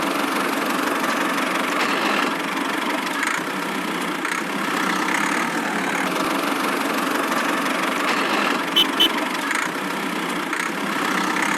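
Miniature DIY tractor's motor running steadily, with two short clicks about nine seconds in.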